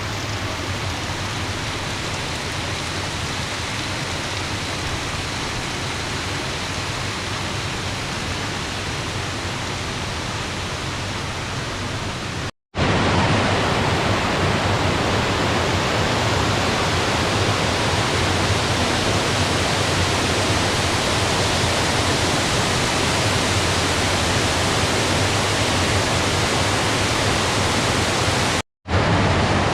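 Steady rush of flowing water, as from a rain-swollen stream or small waterfall. It breaks off for a split second twice and is louder after the first break, about twelve seconds in.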